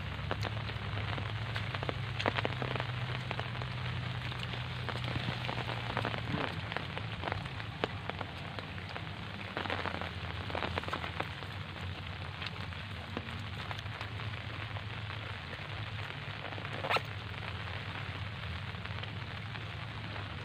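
Rain falling on a lake and the reeds at its edge: a steady patter, with a few louder sharp clicks, the loudest about 17 seconds in, over a low steady rumble.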